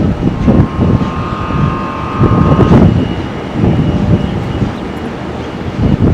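Wind buffeting the microphone in gusts, over the whine of a jet airliner's engines, a steady high tone that is clearest from about one to three seconds in.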